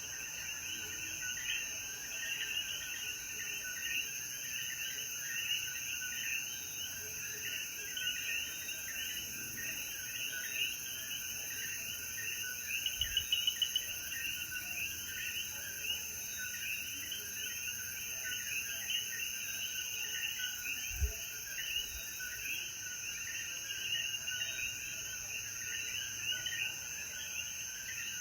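Night chorus of many Puerto Rican coquí frogs, their short rising chirps overlapping without pause, over a steady high insect drone. There is a soft low thump about 21 seconds in.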